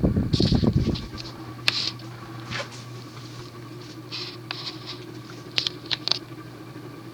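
Union Ngok Kee Gulf Star ceiling fan's cast-iron spinner motor running up to medium speed, with a steady hum. A low rumble fills the first second, and light ticks come at irregular intervals throughout.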